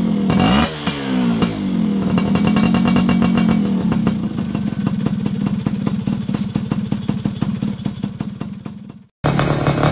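Yamaha F1ZR two-stroke single-cylinder motorcycle engine running through a racing exhaust: a couple of quick revs at the start, held briefly higher, then falling back to a slower, uneven idle that fades away. About nine seconds in it cuts abruptly to another recording of the engine running louder.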